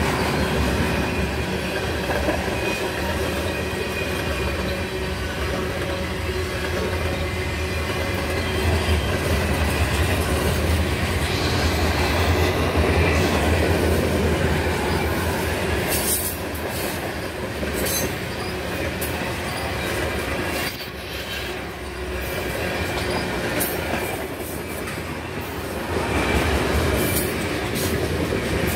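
Freight train of tank cars rolling past at speed: a steady rumble of wheels on rail with some wheel squeal, and sharp clicks every second or two in the second half as wheels cross rail joints.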